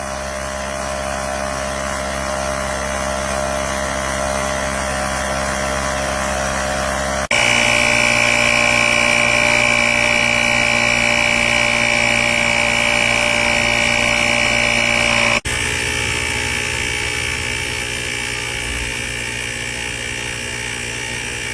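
Cordless portable tire inflator's small air compressor running steadily, in three cut-together stretches. The middle stretch, from about seven seconds in, is louder, with a high whine.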